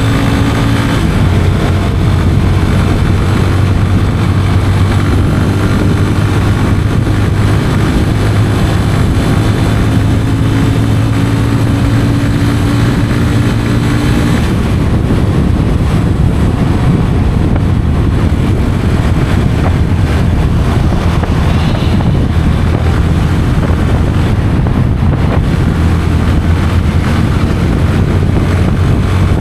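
Yamaha FZ 25's 249cc single-cylinder engine and stock exhaust running steadily under way, with wind noise on the microphone. About halfway through, the even engine tone gives way to a rougher, noisier sound.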